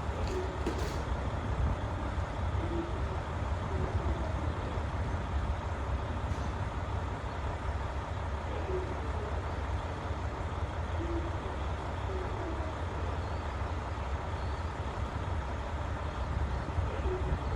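Diesel railcar engines running steadily at a station, a low rumble with a few faint clicks about half a second in.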